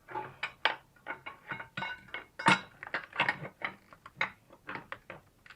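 Irregular metallic clinks and knocks as an alternator and its steel mounting bracket are handled and shifted against the engine, several sharp clanks a second.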